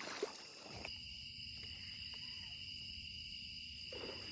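Steady high-pitched insect chorus, with two continuous shrill tones, and a brief rustle of noise in the first second.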